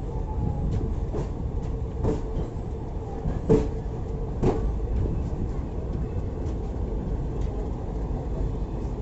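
Passenger express train running on the track: a steady low rumble with sharp clicks of wheels passing over rail joints, several in the first half, the loudest about three and a half seconds in.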